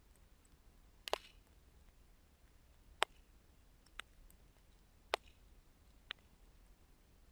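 Wood fire crackling: five sharp, separate pops about a second apart over a faint low background.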